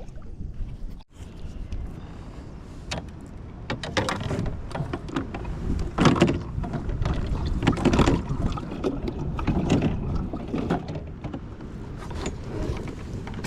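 Water lapping and sloshing against a kayak hull, with a steady low rumble of wind on the microphone and scattered light knocks, surging louder several times.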